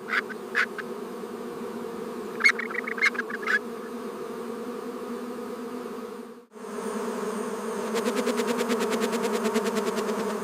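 Swarm of stinging insects buzzing steadily. The buzz cuts out about six seconds in and comes back louder. A few short high chirps sound near the start and again around three seconds in, and a fast ticking rattle joins over the last couple of seconds.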